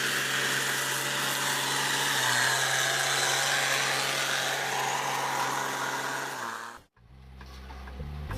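A vehicle engine running steadily with a broad hiss over it, cut off abruptly about seven seconds in.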